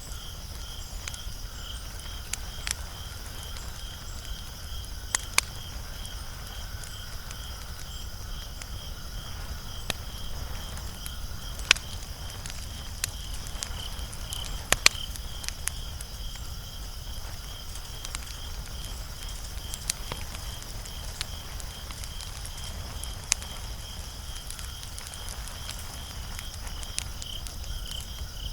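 Wood fire crackling, with sharp pops every second or two over a low steady rumble. A steady high-pitched pulsing trill runs beneath it throughout.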